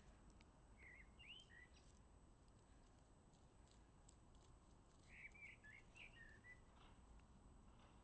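Near silence with faint bird song: a short twittering phrase about a second in and a longer one around five seconds in, with a few faint ticks.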